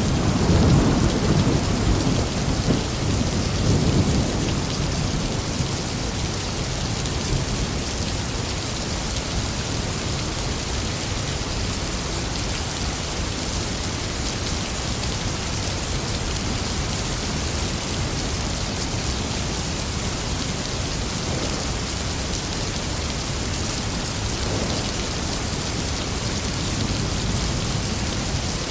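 Steady heavy rain falling, an even hiss throughout, with a low rumble of thunder in the first few seconds that dies away.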